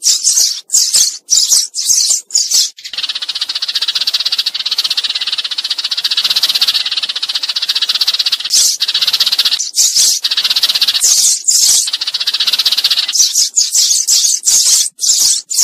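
Sparrows calling: runs of sharp chirps, and in the middle a long stretch of dense, fast chattering with chirps breaking through. This is a flock-calling lure recording of sparrows.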